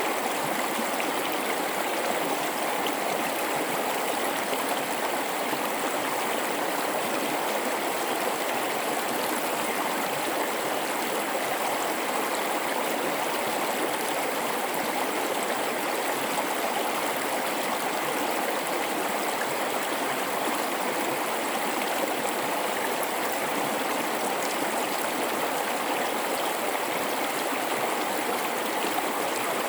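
A mountain river flowing steadily through a rocky gorge: an even, unbroken rush of running water.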